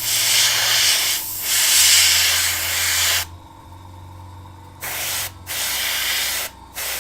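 Airbrush spraying metallic pearl paint, a hiss of air and paint. One long spray of about three seconds, a pause, then three short bursts as the trigger is pulled on and off. A low steady hum runs underneath.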